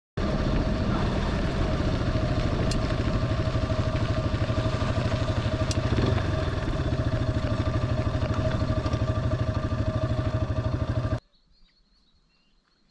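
Single-cylinder dual-sport motorcycle engine running steadily under way, with a fast, even pulse. It cuts off suddenly about 11 seconds in, leaving faint bird chirps.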